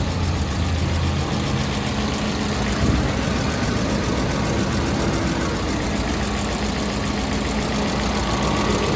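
BMW M62 V8 engine idling steadily just after starting, an engine whose timing chain guides the owner says have failed.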